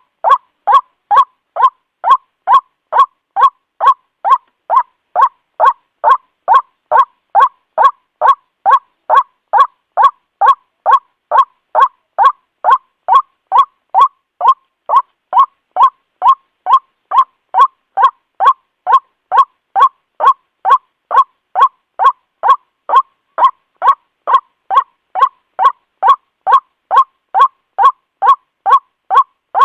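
White-breasted waterhen (Amaurornis phoenicurus) calling: the same loud, harsh 'ruak' note repeated evenly about twice a second. This is the call trappers play as a lure to draw the bird in.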